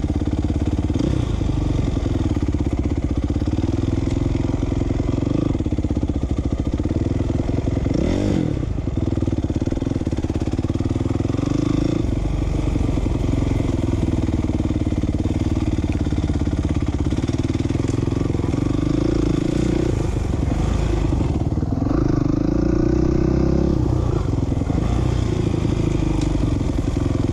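A 2007 450R motocross bike's engine running under load around the track. Its pitch rises and falls every few seconds as the throttle is opened and rolled off through turns and straights.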